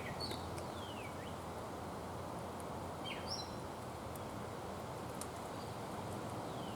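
Steady outdoor background hiss with wild birds calling over it: a few short whistled calls that fall in pitch, near the start and again at the end, and a couple of brief chirps about three seconds in.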